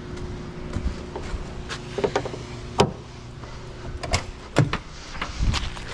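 A steady machine hum with irregular sharp knocks and clanks, about six of them, the loudest near the middle.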